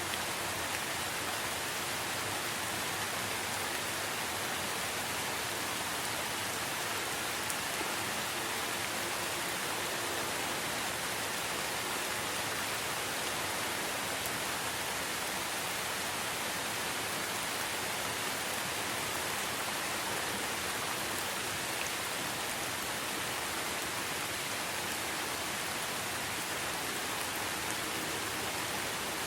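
Steady rain falling in a forest, an even hiss with faint drop ticks.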